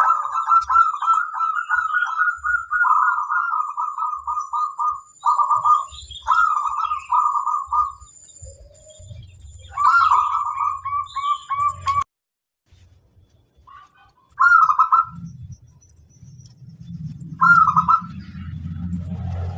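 Perkutut (zebra dove) singing, a run of quick, rhythmic trilled coos in several phrases. The song breaks off abruptly about twelve seconds in, and two short phrases follow. A low hum builds near the end.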